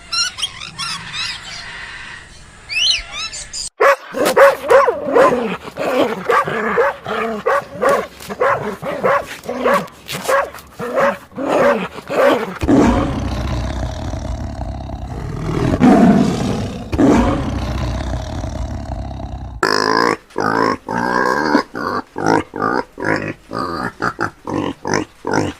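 A run of animal calls in several distinct stretches: high chirping first, then many short repeated calls, a rougher stretch with low drawn-out calls in the middle, and more short calls near the end.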